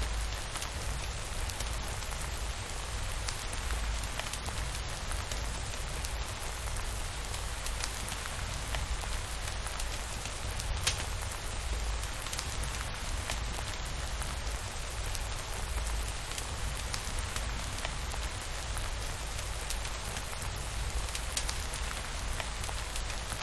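Steady rainfall with a low rumble underneath, broken by a few scattered sharp crackles of a wood fire.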